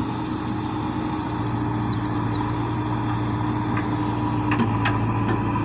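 Heavy diesel engine running steadily at a constant speed, with a few sharp clicks near the end.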